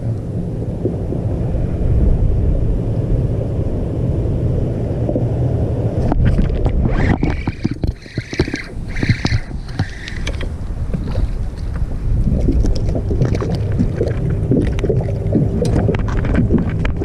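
Strong wind buffeting the microphone on a small fishing boat: a steady low rumble, with scattered knocks and clicks from about six seconds in and a few brief higher sounds soon after.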